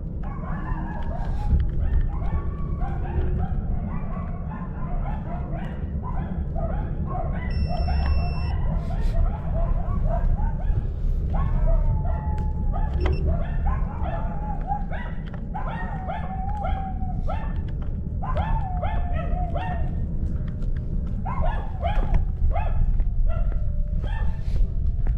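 A dog barking and whining over and over in short, pitch-bending calls, with a steady low rumble underneath.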